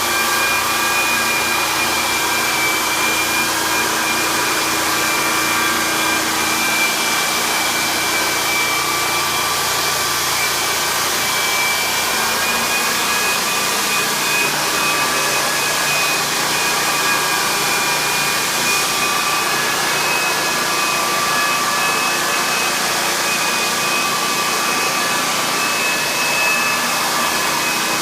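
Hardwood floor sander running steadily: a constant motor whine over a loud, even rushing noise.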